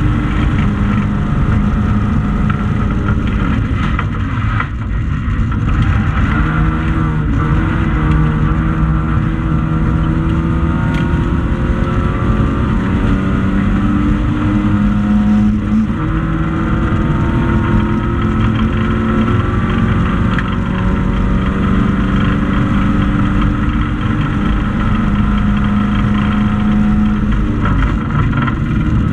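Racing hatchback's engine running hard under load, heard from inside the stripped cabin, its pitch climbing again and again as it pulls through the gears. There is a short drop about four seconds in and another about halfway.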